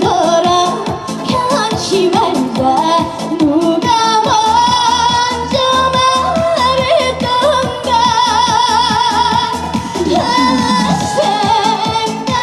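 Live Korean trot song: a female voice sings with wavering vibrato over band backing with a steady dance beat.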